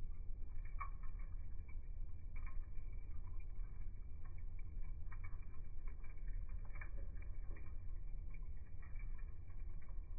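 Wood fire burning, with irregular crackles and pops from the burning wood over a steady low rumble.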